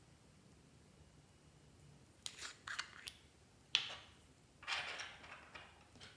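Clear slime being handled: after a quiet start, a few sticky clicks and pops, one sharp snap, then a longer crackling squelch.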